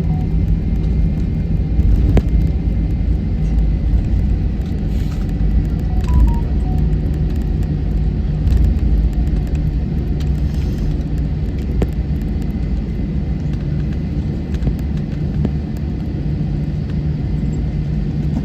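Steady low rumble inside the cabin of a Wizz Air airliner rolling on the ground after landing, with a few light clicks and a brief faint tone about six seconds in.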